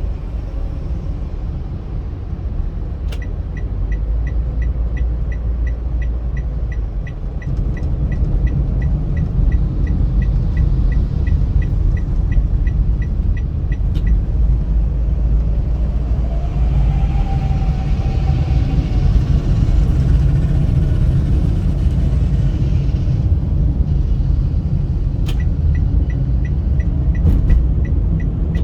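Steady low road rumble of a car driving at speed on a highway, heard from inside the cabin. A fast, even ticking of about three ticks a second runs for roughly ten seconds, then comes back briefly near the end. A passing swell of traffic noise rises and fades midway.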